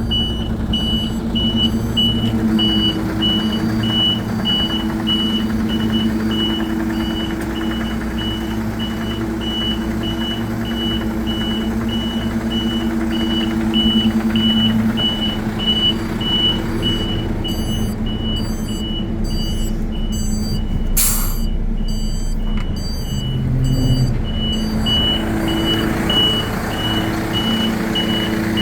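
MAN TGA 35.440 tipper truck's straight-six diesel running steadily while its reversing alarm beeps about twice a second. A short hiss of air sounds about three-quarters of the way through.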